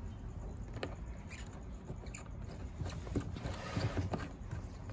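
Scattered small clicks, taps and scrapes of a plastic hose being handled and fitted onto the back of a portable washing machine, over a low steady hum.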